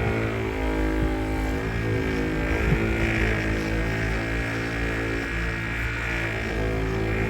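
Electric mechanical polisher running steadily with a mop pad and cutting compound on a plastic headlight lens, its motor holding an even pitch.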